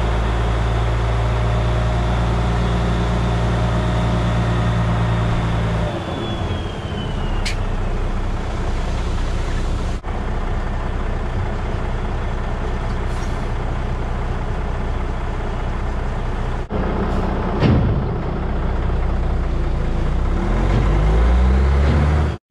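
Dump truck engine running under way. About six seconds in it drops off as the truck slows, and near the end it climbs steadily in pitch as the truck pulls away again.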